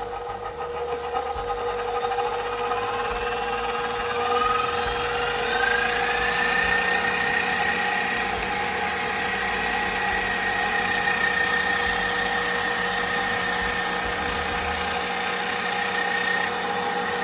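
KitchenAid Professional stand mixer's electric motor running with a steady whine. About five seconds in, the pitch rises, then holds level. The sound is not too loud.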